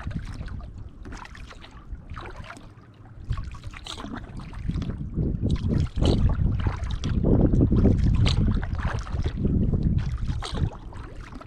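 Kayak paddle strokes splashing into the water at a steady pace of roughly one a second, with wind buffeting the microphone as a low rumble that grows louder in the second half.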